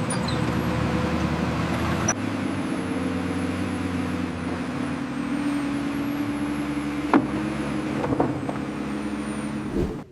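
Wheel loader's diesel engine running steadily, with a sharp click about seven seconds in; the sound cuts off just before the end.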